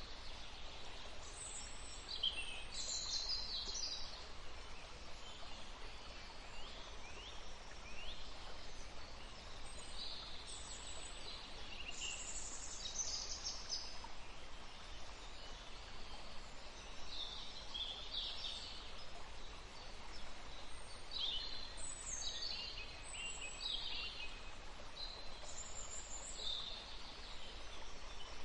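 Several songbirds singing and chirping over a steady background hiss of outdoor ambience, with short high phrases and quick sweeping notes coming every second or two.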